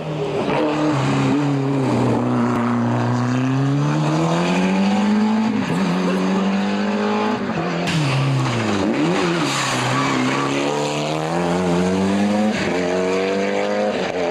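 Rally car engine at full effort on a special stage, its pitch climbing as it accelerates and dropping at gear changes and braking. There is a sharp dip and rebound about nine seconds in, and another long climb near the end.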